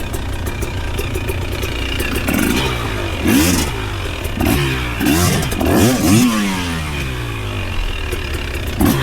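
Off-road vehicle engine on a trail, revving up and dropping back several times from a few seconds in, with scattered clattering.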